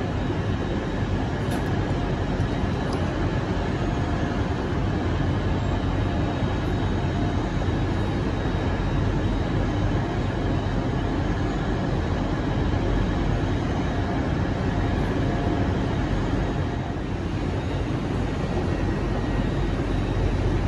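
Steady rumble of Hitachi Azuma trains' running equipment with a faint steady whine, as one train creeps up toward the other to couple.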